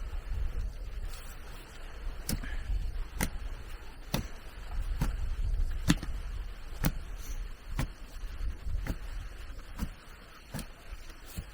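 Regular sharp knocks of a hand tool striking, about one a second, over a low rumble.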